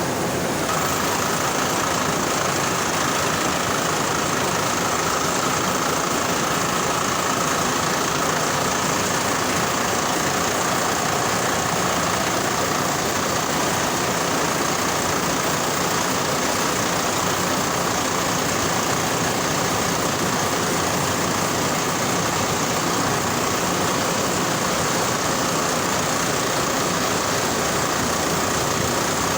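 Steady, loud machinery noise at a blast furnace cast house, with a high, steady whine that sets in about a second in.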